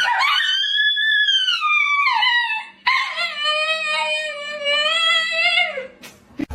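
Dog howling: two long howls, the first rising and then falling in pitch, the second held and then dropping at its end.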